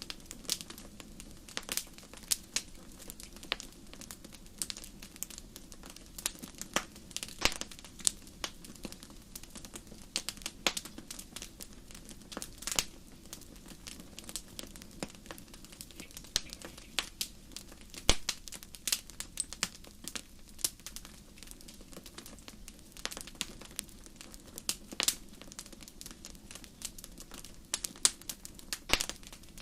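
Wood fire crackling in a fireplace: many sharp, irregular pops and snaps over a low, steady rumble of flame.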